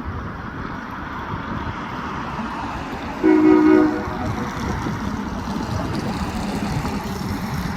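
Diesel locomotive air horn sounding one short blast about three seconds in, over steady background rumble and wind.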